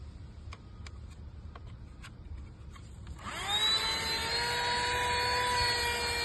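A few faint clicks, then about three seconds in a Temola cordless vacuum is switched on: its motor whine rises quickly and settles into a steady, high-pitched run.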